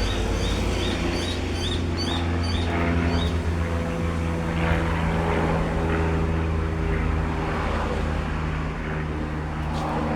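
A steady low motor drone, with a bird's rapid, high chirps repeating about three or four times a second during the first three seconds.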